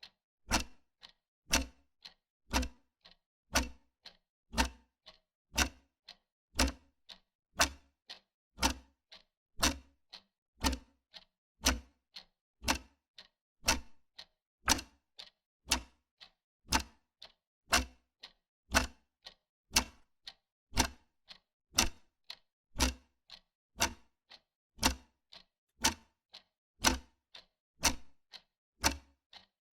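Wall clock ticking at an even pace: sharp clicks about twice a second, alternating a louder tick with a softer tock.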